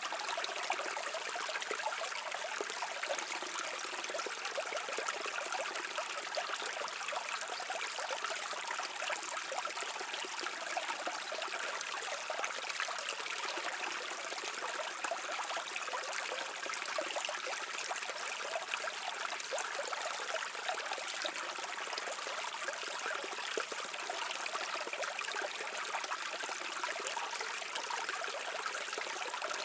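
Stream water flowing and trickling steadily, a continuous splashing rush with its sound mostly in the higher range and little bass.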